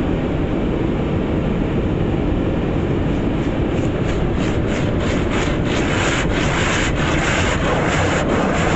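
Rotating brush of an automatic car wash scrubbing over the car, heard from inside the cabin. It makes a steady heavy rumble, and from about three seconds in it adds rhythmic swishing slaps, roughly three a second.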